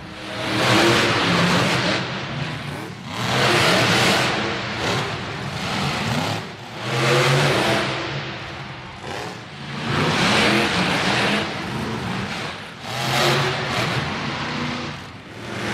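Monster truck engine revving hard in repeated surges, about five of them a few seconds apart, easing off between each.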